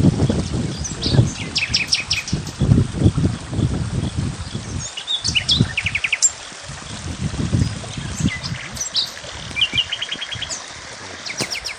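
Small birds chirping, with quick trills of rapidly repeated notes, over irregular low rumbling and thudding that comes and goes.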